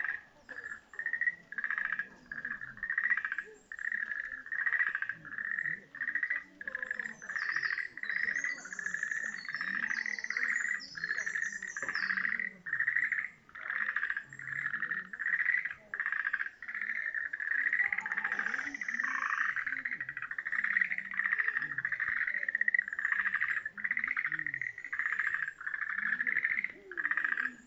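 Chorus of pond frogs calling: many overlapping pulsed croaks near the same pitch, rising and falling in bouts about once a second without a break.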